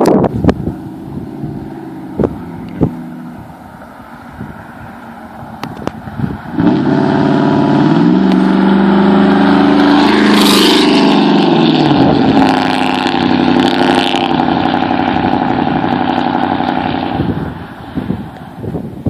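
Straight-piped 5.3-litre V8 with true dual exhaust, faint at first, then loud from about six seconds in as the engine is revved or accelerated, its pitch rising and falling, before it drops away near the end.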